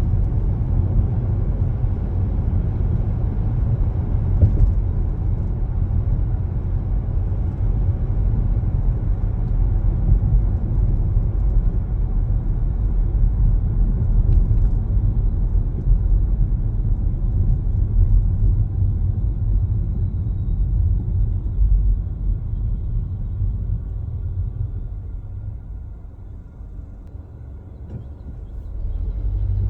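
Car driving along a road: a steady low rumble of tyres and engine that eases off about twenty-four seconds in as the car slows, then picks up again near the end.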